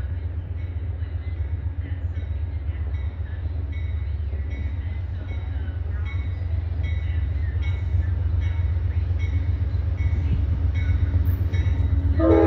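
A train rumbling steadily, with faint regular clicking from the wheels, growing slightly louder. Right at the end, a train horn begins to blow a chord.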